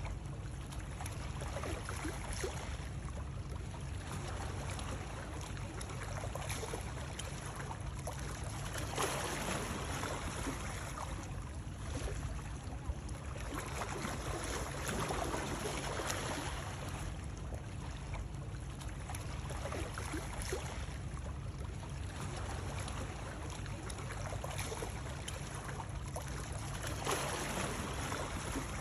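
Continuous water noise with a steady low rumble, swelling and easing every few seconds like water sloshing or lapping.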